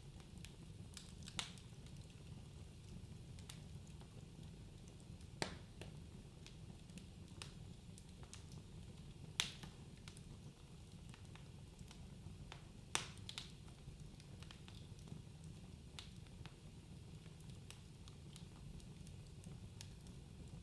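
Wood fire crackling in a fireplace: a low steady rumble of flames with scattered sharp pops and snaps, four of them louder, spaced about four seconds apart.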